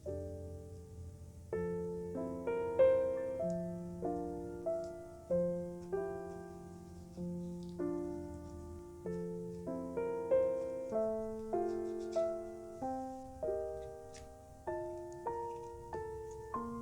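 Background piano music: a slow, gentle melody of struck notes, each fading away, over held low bass notes.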